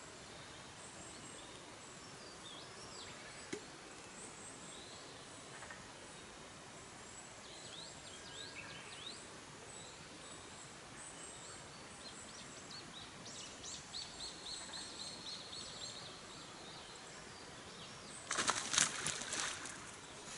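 Small birds chirping and trilling over a steady outdoor hiss. Near the end a loud burst of rapid crackling lasts about two seconds, typical of a wood campfire popping.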